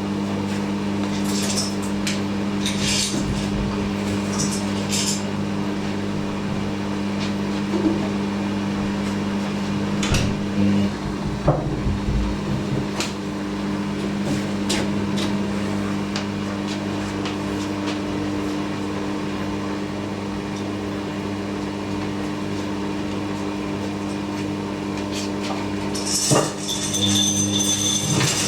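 Hoover NeXtra washing machine's drain pump running with a steady hum, with scattered clicks and a few knocks from the drum about ten to twelve seconds in. Near the end a thin high whine comes in as the drum motor starts up for the spin.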